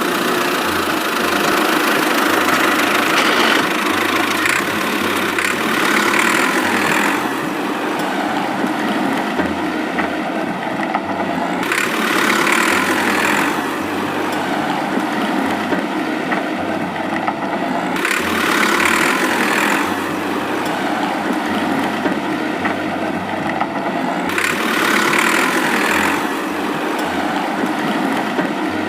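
Homemade mini tractor's small motor running steadily, its sound swelling and easing again about every six seconds.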